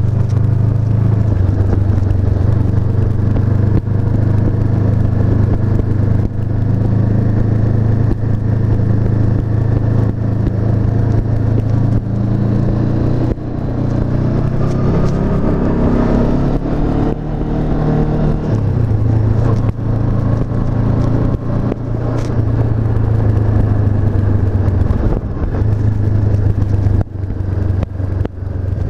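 Honda CB500F's parallel-twin engine running under way on the road. The engine note climbs steadily for several seconds about halfway through, then drops back and holds steady.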